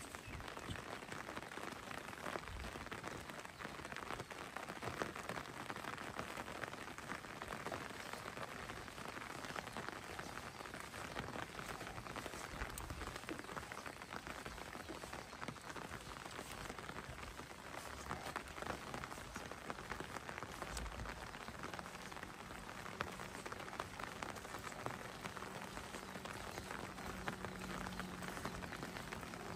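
Rain falling, a steady patter of many fine drops.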